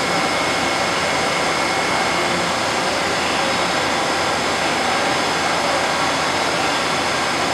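Okuma Crown CNC lathe running, a steady machine hum and whir with a faint high whine and no change in pitch, its spindle held at a capped speed.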